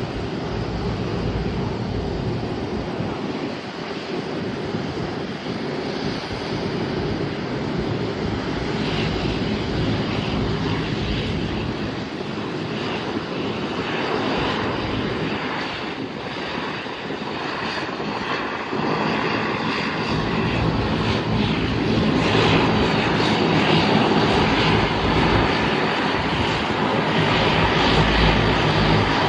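Airliner engines running steadily, a continuous rush with a low hum under it, growing louder over the last several seconds.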